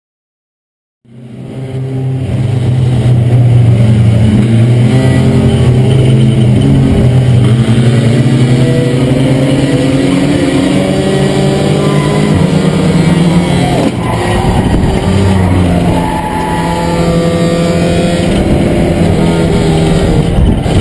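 Four-cylinder Ford Escort race car engine running hard under acceleration, heard from inside its stripped-out cabin. It starts about a second in and its pitch climbs and falls as the revs change, with a short drop in level about two-thirds of the way through.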